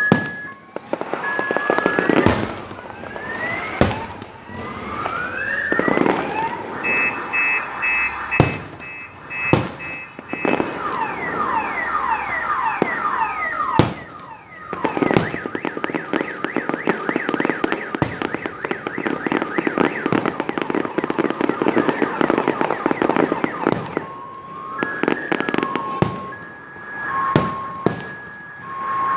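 Fireworks going off: rising whistles from launching rockets, sharp bangs, and a long dense run of crackling through the middle. Intermittent steady beeping tones sound near the start and near the end.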